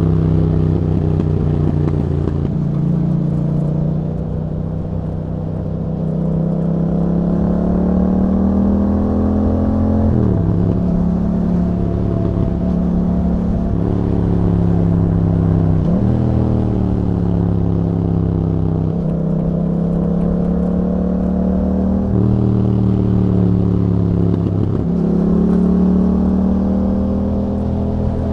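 2021 Yamaha MT-07's parallel-twin engine running through an aftermarket Akrapovic exhaust while the bike is ridden. The revs climb slowly for several seconds, then drop back abruptly, four times over.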